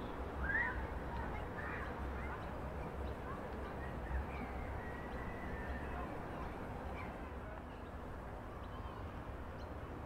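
Scattered bird calls, short up-and-down chirps and one longer call near the middle, over a low steady rumble of outdoor background noise.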